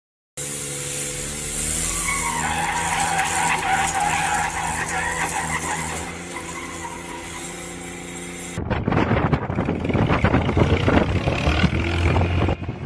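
A motor vehicle's engine running steadily, with a high squeal that slides down in pitch. About eight seconds in it cuts to rough, gusting noise with a low rumble.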